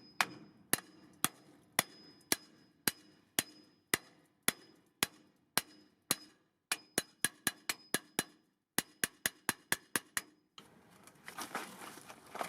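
Hammer blows ringing on metal, about two a second, then a quicker run of strikes past the middle, as a seized wheel is knocked free. Near the end the blows stop and a scraping, rustling noise follows.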